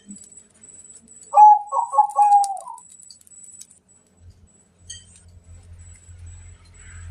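Zebra dove (perkutut) cooing one phrase of its song about a second in: a quick run of several short notes ending on a longer held note. A faint low hum comes in during the second half.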